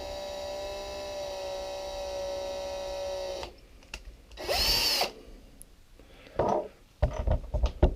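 Electric drill boring out the end of a plastic pen: a steady whine that cuts off about three and a half seconds in. A second short burst of the drill, rising then falling in pitch, follows about a second later, then a few knocks.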